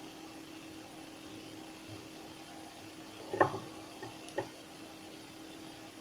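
Faint steady hum with a few light knocks from small objects handled on a work surface, the loudest about three and a half seconds in and a smaller one a second later.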